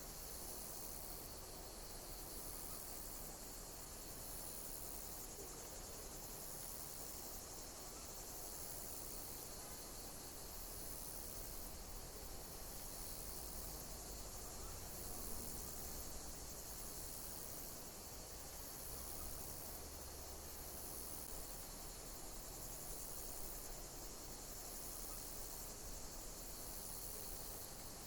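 Insects chirping in a steady high-pitched chorus, with a short falling call repeating about every one to two seconds.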